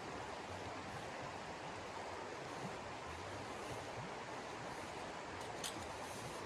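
Steady rushing noise of a winter snowstorm, even and without gusts, with a faint low rumble. A single short sharp click comes about five and a half seconds in.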